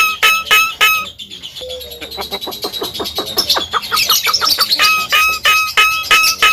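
Javan myna calling: a quick series of sharp, same-pitched notes at about four a second. About a second in, this gives way to a faster rattling chatter, and near the end the repeated notes return.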